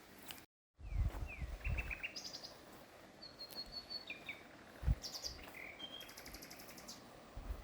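Songbirds chirping and calling: a series of short chirps and quick trills over a steady background rush of a water stream, with a few low thumps. The sound drops out completely for a moment just after the start.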